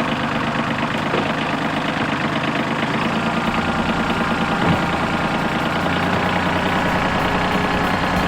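Branson 2400H subcompact tractor's three-cylinder diesel engine running steadily, its note deepening about three seconds in, with a single knock near the middle.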